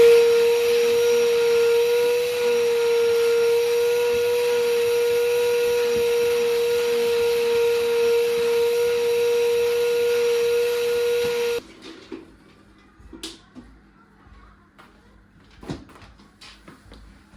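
A household electric appliance running with a steady hum and hiss, switched off abruptly a little over eleven seconds in, followed by a few light clicks and knocks.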